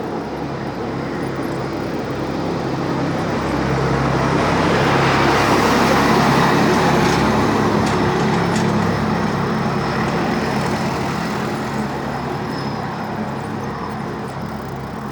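A motor vehicle passing on the street, its engine and tyre noise swelling to a peak about six seconds in and then fading away.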